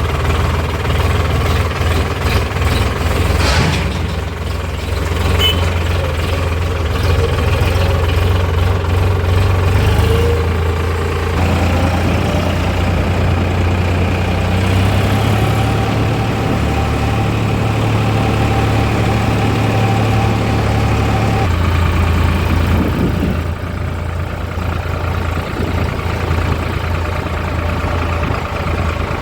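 Heavy diesel engines of a JCB 3DX backhoe loader and tractors running steadily at a work site. A higher steady whine rises in about twelve seconds in and holds until about twenty-one seconds.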